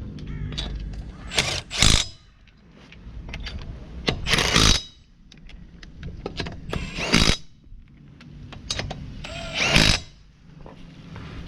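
A power tool run in short bursts, four times, about every two and a half seconds, each burst preceded by a building whirr.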